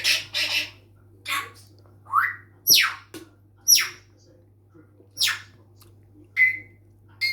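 Pet parrot giving a string of short, sharp squawks and whistles, about one a second, several of them quick falling whistles and one rising, over a faint steady low hum.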